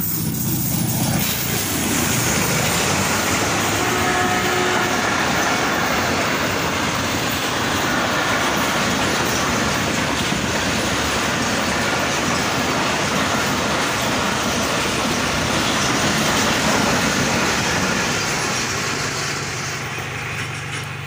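Passenger train passing close by, led by a ZCU-30 diesel-electric locomotive: a steady rumble and clatter of wheels on the rails that builds up over the first couple of seconds and fades near the end.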